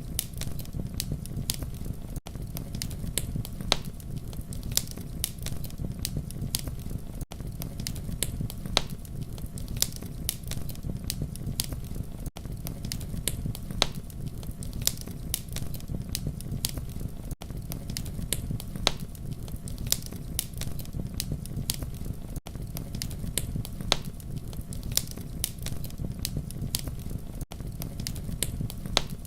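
Wood fire burning: a steady low rumble of flames with frequent sharp crackles and pops. The level dips briefly about every five seconds.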